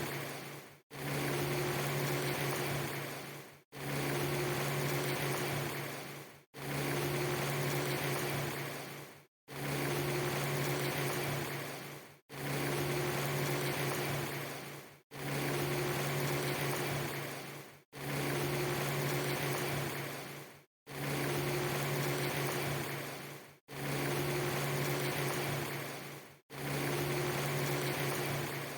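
A steady low hum over a hiss, cut into a short loop that repeats about every three seconds. Each pass fades and drops out for a moment before starting again.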